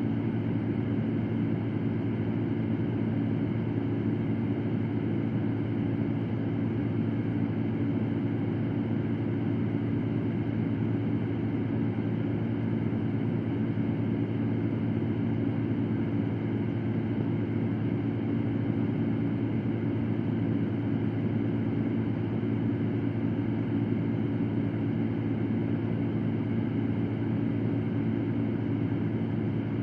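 Electric fan running steadily: an even whooshing drone with a low motor hum and no changes.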